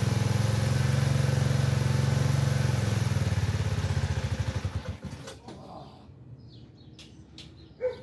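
A small engine running steadily with an even pulsing beat, then shutting off and slowing to a stop about four to five seconds in. A sharp click near the end.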